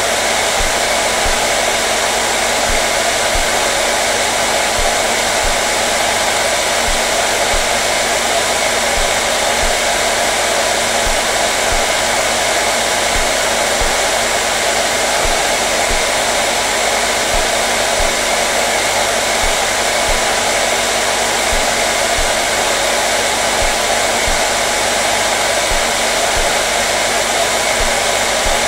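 Hair dryer running continuously at a steady setting, an even rushing blow of air over the motor's steady hum.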